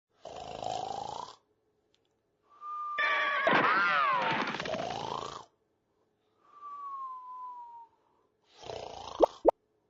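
Cartoon-style snoring sound effects. A raspy snore comes about half a second in, then a louder, wavering pitched snore whose pitch dips and rises, then a thin falling whistle on the out-breath, and another raspy snore near the end.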